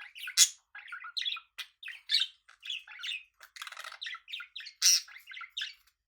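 Budgerigars chattering in quick, varied chirps and squawks, with a buzzy call partway through and a loud squawk near the end. This is the courtship warble of budgies ready to mate. The chatter stops just before the end.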